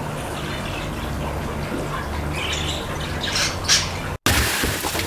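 Cockatiel giving short, harsh squawks and chirps over a steady low hum, with the loudest calls a little past the middle. The sound breaks off abruptly near the end.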